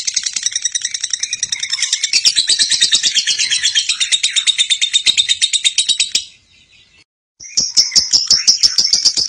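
Lovebird ngekek: a long unbroken chattering trill of rapid shrill notes, about ten a second. It breaks off for about a second roughly two-thirds of the way through, then starts again.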